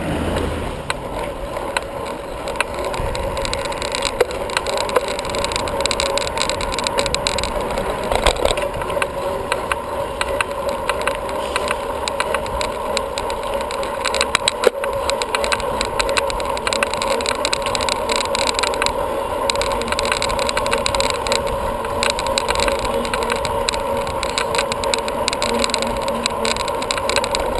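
Steady wind and road noise of a bicycle being ridden, heard from a camera carried by the rider, with a constant hum and scattered clicks and knocks.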